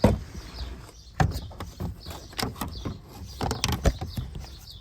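Irregular metallic clicks and knocks of hands and tools working under a car, with a few louder knocks near the middle and end.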